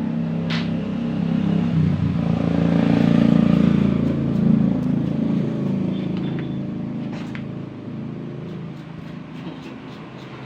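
A motor vehicle's engine running close by, growing louder to a peak a few seconds in and then fading away, like a vehicle passing.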